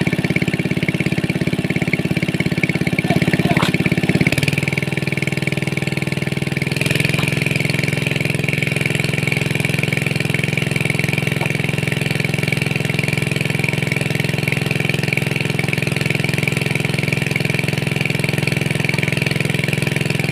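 A small engine running steadily. Its note changes about four seconds in and again about seven seconds in, then holds steady.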